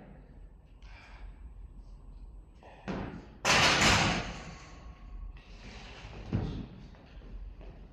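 A loaded barbell slams into the bench press rack about three and a half seconds in, ringing on briefly. A smaller knock comes just before it and a lighter thump follows later.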